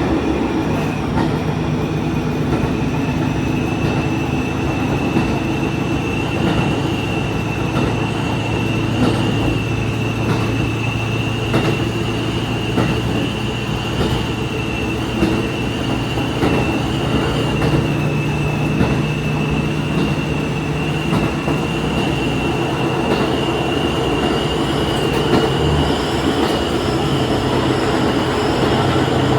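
Diesel railcar running along the line: a steady low engine drone with a thin high whine above it, and scattered clicks of the wheels over rail joints.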